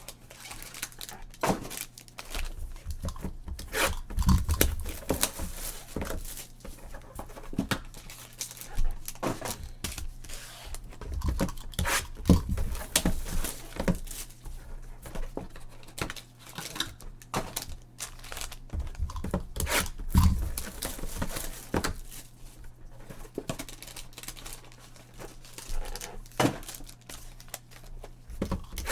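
Sealed trading-card boxes being opened by hand: plastic wrap tearing and crinkling, with irregular rustles and knocks from the cardboard being handled.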